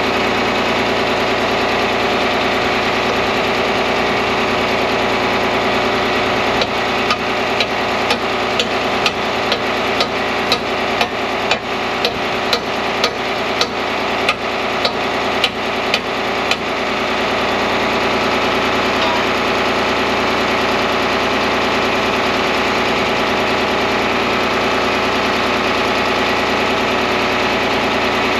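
An engine running steadily, with a series of about twenty sharp hammer-like strikes, roughly two a second, for about ten seconds starting some six seconds in.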